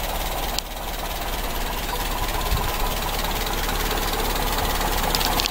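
Toyota 4K four-cylinder petrol engine idling steadily.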